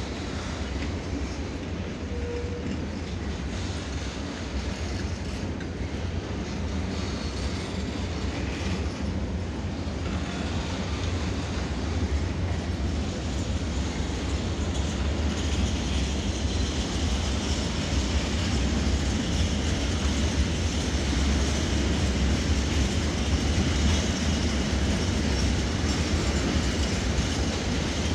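A long freight train of covered and hopper wagons rolling past, with a steady rumble and clatter of wheels on the rails that grows louder in the second half.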